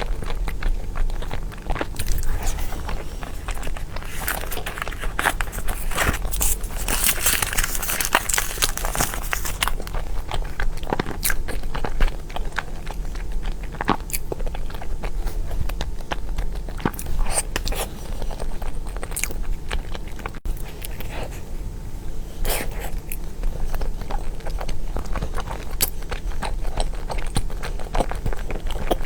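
Close-miked eating sounds of a person biting and chewing soft cream cake, with many small mouth clicks and a louder noisy stretch about seven seconds in.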